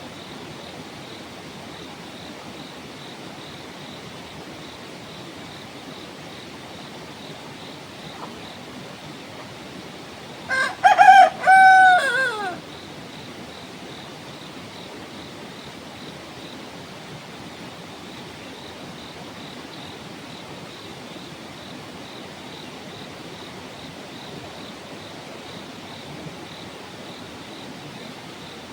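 A rooster crows once, about ten seconds in: a short first note, then a longer held note that drops in pitch at the end. Beneath it runs a steady hiss of flowing water.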